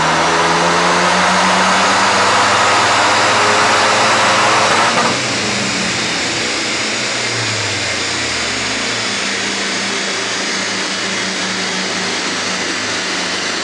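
Renault Mégane RS engine (swapped Mégane 3 RS unit) pulling hard under load on a chassis dyno, its revs climbing steadily. About five seconds in the throttle shuts suddenly, and the engine winds down over a few seconds, leaving a steady whirring rush that carries on to the end.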